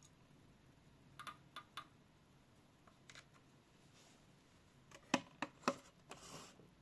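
Light clicks and knocks of small objects being handled: three soft taps about a second in, then three sharper, louder clicks about five seconds in, followed by a short rustle.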